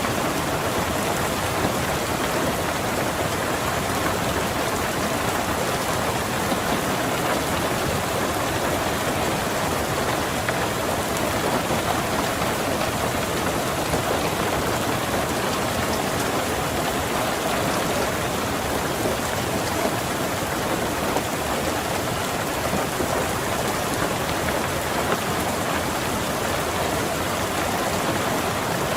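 Steady rain falling on a car's roof and windows, heard as an even, unbroken patter.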